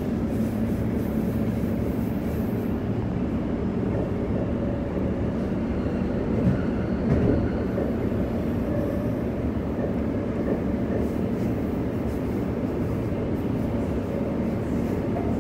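Bombardier B-series electric multiple unit running along the line, heard from inside the carriage: a steady rumble of wheels on rail and running gear, with a couple of brief knocks a little past the middle.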